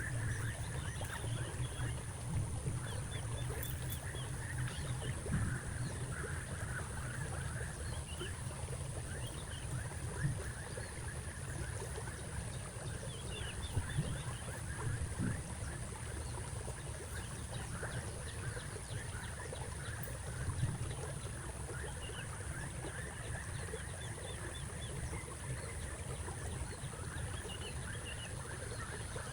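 Outdoor ambience: a steady low rumble on the microphone, a steady high-pitched hum, and faint short bird chirps scattered throughout.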